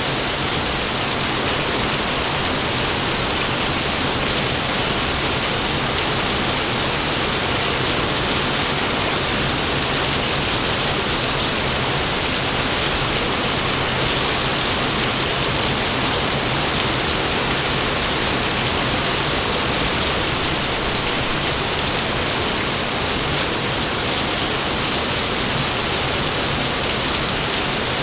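Heavy rain falling steadily, a dense, even hiss with no breaks or thunderclaps.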